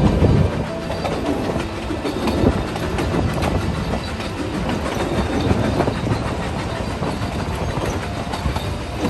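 Puffing Billy's narrow-gauge steam train running along the track, its wheels clicking and clattering over the rails in a steady, continuous rumble.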